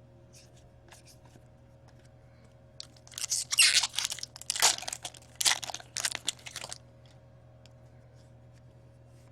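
A hockey trading-card pack wrapper being torn open and crumpled, a burst of tearing and crinkling that starts about three seconds in and lasts some four seconds.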